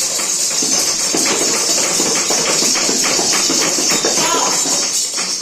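Rapid, continuous tapping and jingling of a hand percussion instrument such as a tambourine, over a steady high shimmer.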